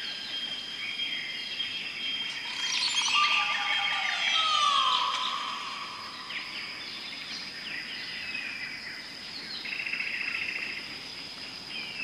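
Birds chirping and calling, a dense mix of short chirps and a few falling notes that peaks a few seconds in, over a steady high-pitched whine.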